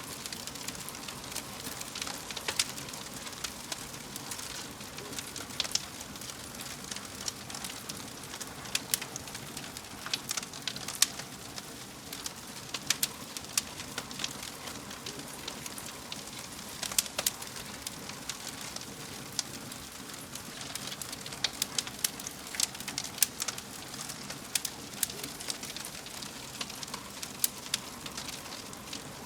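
Wood fire burning, with a steady soft hiss and frequent irregular sharp crackles and pops.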